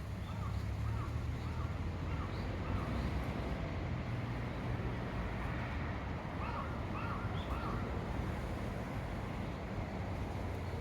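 A crow cawing: a run of about five caws, then three more after a pause, over a steady low rumble.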